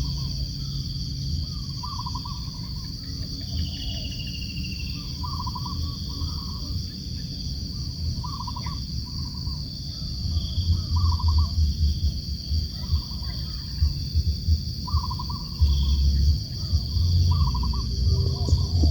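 Tengkek kayu (a kingfisher) calling: short trilled notes repeated about every one to two seconds. A steady high drone and a low rumble run underneath, with the rumble louder in the second half.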